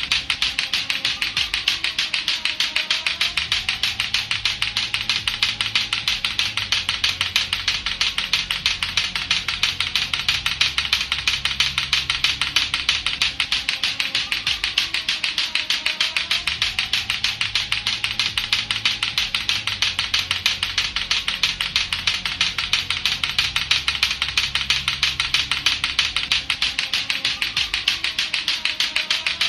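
Lato-lato clacker toy, two hard plastic balls on strings knocked together in a fast, unbroken run of sharp clacks, with a low musical backing looping underneath.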